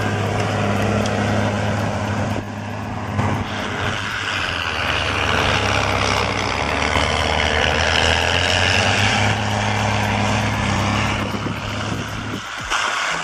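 Heavy vehicle engine running steadily, a low even hum under a broad rushing noise, with a short dip near the end.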